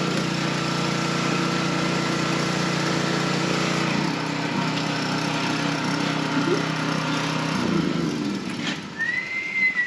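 An engine running steadily, its pitch dropping about four seconds in and fading out a few seconds later. A short high whistling note rises and falls near the end.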